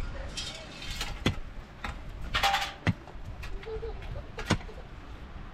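A few sharp, separate knocks, about four spread over several seconds, with a short scraping rustle about two and a half seconds in.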